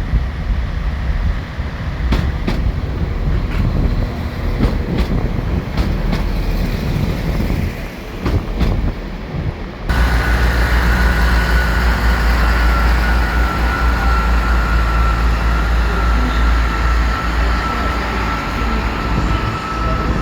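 Two-carriage diesel multiple-unit train at the platform, with a run of clicks in the first half. About halfway through, the sound jumps to a louder steady low rumble with a high whine that drifts slightly lower.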